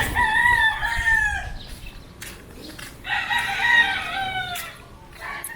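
A rooster crowing twice: one long crow at the start and a second about three seconds in, each dropping in pitch at its end.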